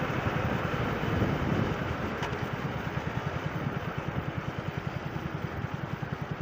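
Small motorcycle engine running at low revs with an even putting beat, with wind noise on the microphone.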